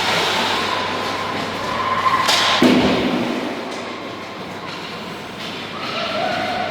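Echoing noise of a youth team game in a large indoor arena, with a sharp knock and a heavy thud about two and a half seconds in.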